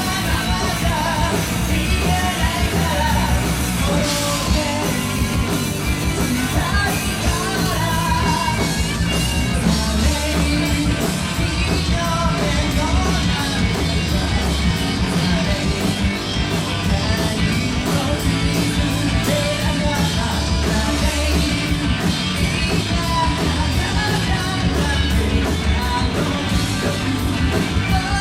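Rock band playing live, with a singer over loud drums and bass. From about ten seconds in, the drums settle into a fast, even beat.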